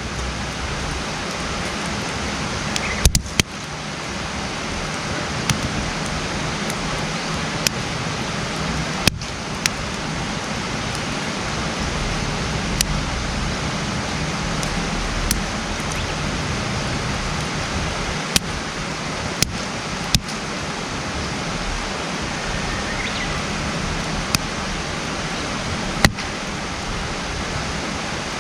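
Wood campfire burning: scattered sharp pops and crackles, about a dozen at irregular intervals, over a steady hiss.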